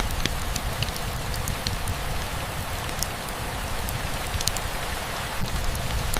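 Steady rainfall, an even hiss with scattered individual drops ticking, over a low rumble.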